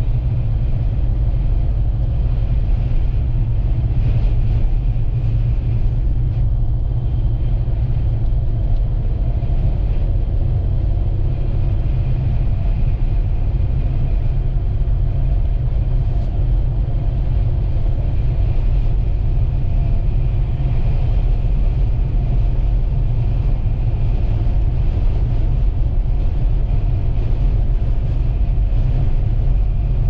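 Steady low rumble of a vehicle driving on a highway: road and engine noise, unchanging throughout.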